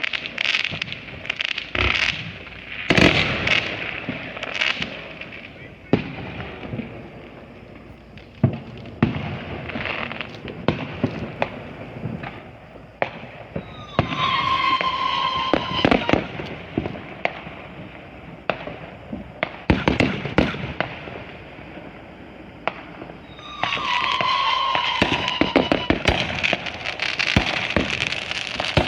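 Consumer fireworks going off: many sharp bangs and pops at uneven intervals, thickest in the first few seconds. Around halfway and again near the end, a hiss with a steady high tone runs for about two seconds over the bangs.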